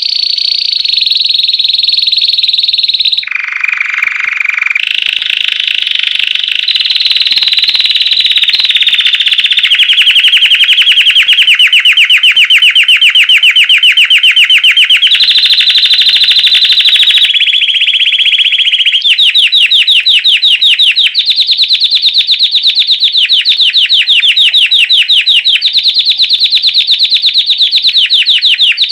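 Belgian canary singing a loud, continuous song of fast trills, switching to a new phrase every few seconds, with one lower-pitched phrase about three seconds in.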